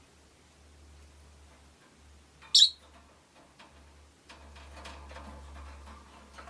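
Rosy-faced lovebird giving one short, sharp, high-pitched chirp about two and a half seconds in. Faint scattered clicks and rustling follow in the second half.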